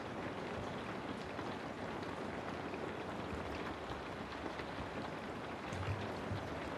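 Steady rain falling, an even hiss of rainfall with fine pattering drops, and a couple of soft low thumps about six seconds in.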